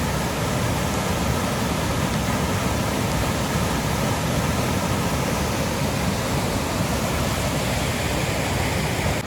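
Fast-flowing monsoon floodwater rushing, a steady unbroken noise.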